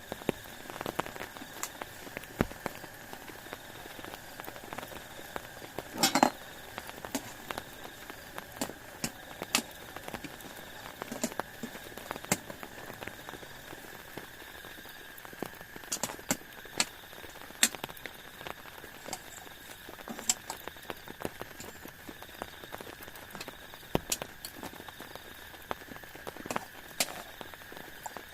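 Scattered raindrops tapping irregularly over a steady background hiss of rain, with a louder cluster of taps about six seconds in.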